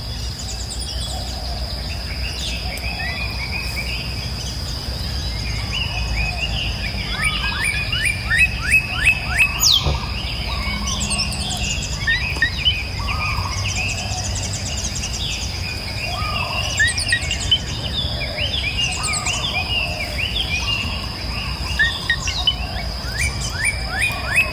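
Several wild birds chirping and calling together, with runs of quick repeated chirps, over a steady high-pitched tone and a low outdoor rumble.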